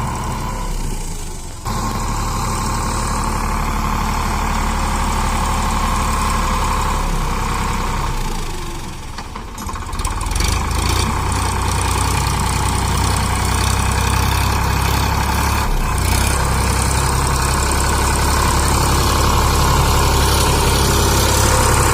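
Tractor diesel engine running steadily. It drops briefly about eight seconds in, then picks up again.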